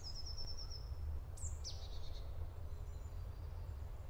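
Songbirds calling: a quick high trill of about eight rapid notes at the start, then a couple of short calls falling in pitch about a second and a half in, over a low steady rumble.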